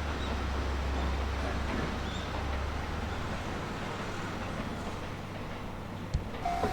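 Steady rumbling noise of a train running, with a low hum that fades about halfway through. Near the end a few sharp clicks come, and a repeating beeping tone begins.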